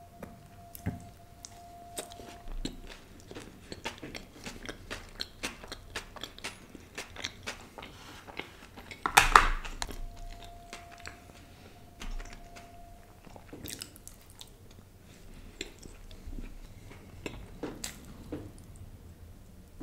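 Close-miked eating: a man biting and chewing butter-fried pav (soft bread roll) scooped with pav bhaji, many short wet mouth sounds and bites, with one much louder burst about nine seconds in.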